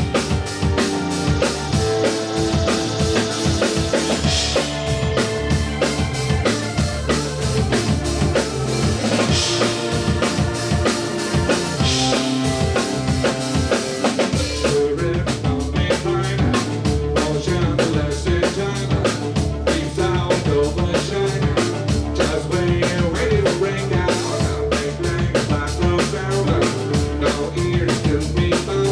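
Live rock band playing, drum kit to the fore with bass drum and snare. Cymbal crashes come every few seconds in the first half, then a quick, even cymbal beat takes over from about halfway.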